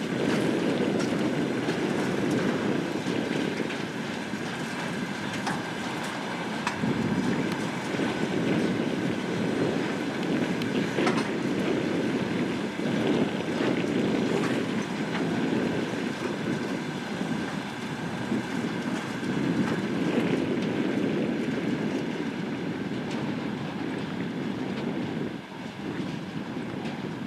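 Train rolling along the track: steady running noise with wheels clicking over rail joints and a steady high whine, swelling and easing every several seconds.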